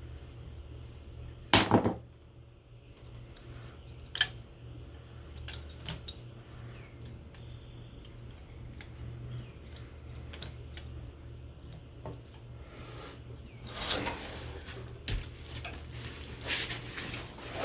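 Metal tools and engine parts clinking and clanking during hands-on engine work, with one loud clank about a second and a half in and a busier run of rattles and knocks near the end. A steady low hum runs underneath.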